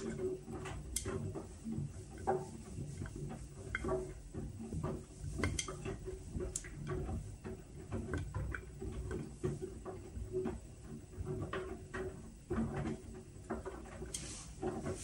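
Whirlpool washing machine running a Steam Refresh cycle: a steady low motor hum with irregular clicks and knocks from the machine.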